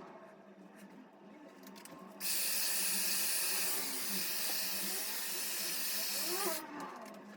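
A loud, steady hiss of rushing air or spray that switches on abruptly about two seconds in and cuts off suddenly near the end.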